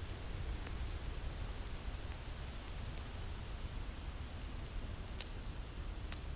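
Wind with a crackling fire: a steady low rumble and soft hiss, with scattered sharp pops and snaps from the burning wood, the brightest a little after five and six seconds in.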